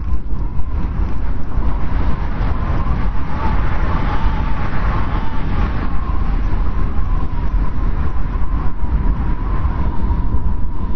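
Strong wind blowing in a snowstorm: a steady deep rumble with a thin, wavering whistle over it that swells in the middle and eases off.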